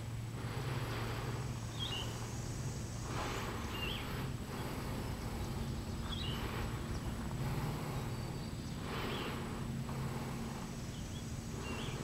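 A forest bird calling with a short, high chirp about every two seconds, over soft rushes of noise that swell every few seconds and a steady low hum.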